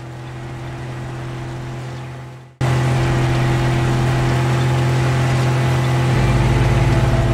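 Car engine sound effect running at a steady drone. It fades in, jumps suddenly louder about two and a half seconds in, and a deep low rumble joins it near the end.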